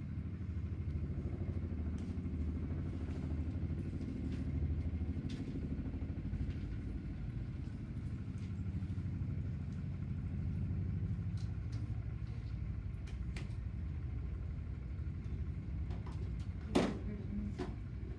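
A vehicle engine running steadily with a low rumble, with one sharp knock or clack near the end.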